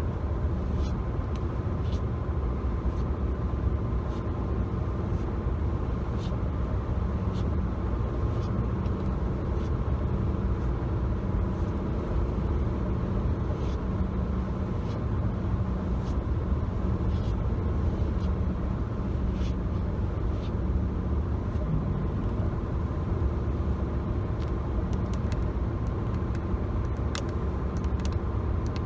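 Steady road and engine rumble inside a moving car, with light taps and clicks on the car's interior trim scattered irregularly through it.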